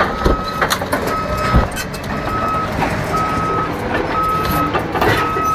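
Vehicle reversing alarm beeping about once a second, six beeps in a row, over engine rumble and occasional clanks.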